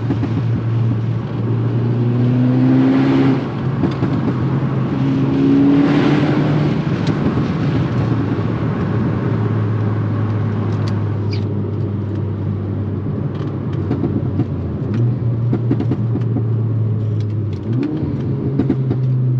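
Tuned MK6 Golf R's turbocharged four-cylinder through an aftermarket turbo-back exhaust, revving up hard twice with a gear change after each pull, then running at steadier revs. Scattered sharp crackles from the exhaust come in the second half.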